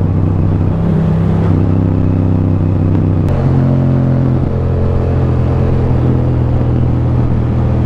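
Motorcycle engine running under way, its note stepping up in pitch twice in the first few seconds and then holding steady.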